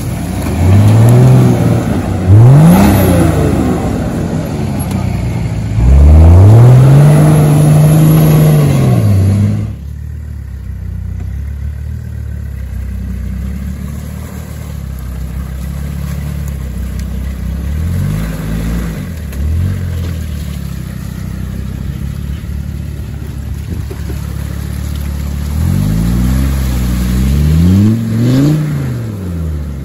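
Off-road 4x4's engine revving in repeated bursts while driving up a muddy slope, the pitch rising and falling with each blip of the throttle. The longest and loudest rev comes about six to nine seconds in, then the engine runs lower, with more short revs near the end.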